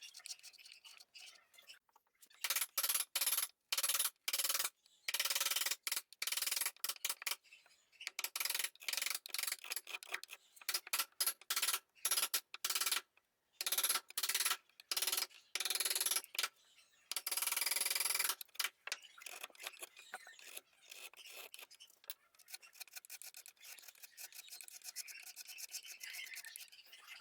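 A hand tool scraping wood in rapid repeated strokes, loud and choppy with short gaps through the middle, fainter and more even near the end.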